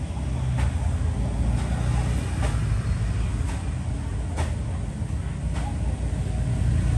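A Zippo lighter being handled, giving sharp clicks about once a second over a steady low rumble.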